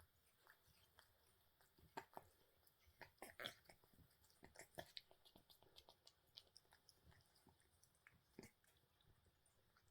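Faint wet licking and smacking of a cat grooming its rain-wet fur: irregular small clicks of tongue and mouth, busiest in the middle.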